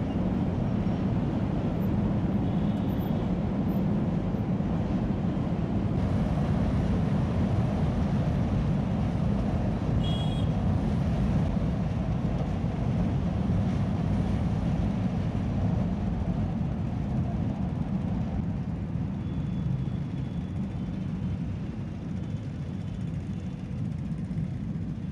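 Passenger train rolling across a steel girder railway bridge: a steady low rumble of wheels on rails and bridge deck, easing slightly toward the end.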